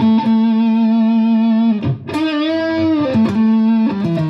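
Stratocaster electric guitar played through a Fender Mustang GTX100 modelling amp on its 'Tube Soup' preset, a faux tube-amp tone. Long sustained notes ring out, one bent with vibrato about halfway through, and lower notes come in near the end.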